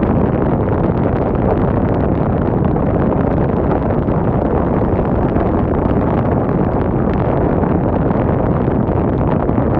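Wind blowing hard, a loud steady rush with a deep rumble.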